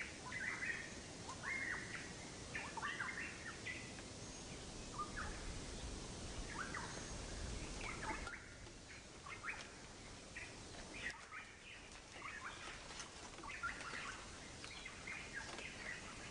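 Faint birds chirping, in short scattered chirps, with a low rumble for a few seconds around the middle.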